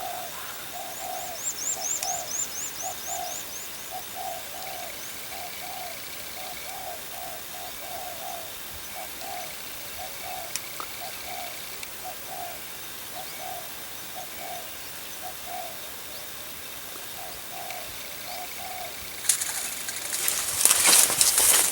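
Spotted dove cooing over and over in a steady run of short notes. A small bird gives a brief high trill early on. Near the end a loud burst of rustling or flapping cuts in.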